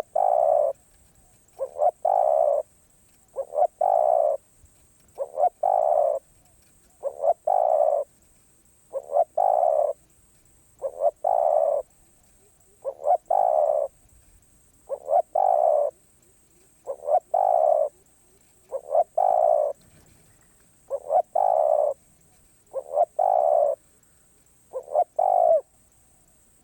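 Spotted dove cooing over and over: each phrase is two short notes followed by a longer coo, repeated about every second and three-quarters.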